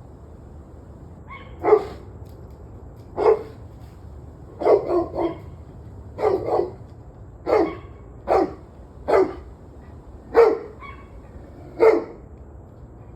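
A dog barking repeatedly, about a dozen barks in all, some single and some in quick runs of two or three, roughly a second apart, over a steady low hum.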